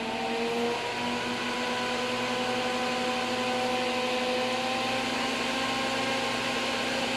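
All-metal fan of a NOEVSBIG solder fume extractor, with its filter removed, spinning up slowly toward maximum speed after being turned up. It makes a steady hum and whir whose pitch rises gradually.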